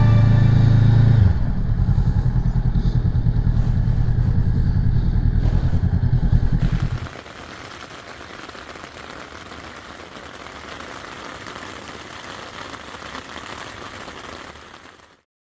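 Motorcycle engine running with an even, rapid pulse, which drops away about seven seconds in and leaves a quieter steady rumble of background noise until the sound cuts off near the end.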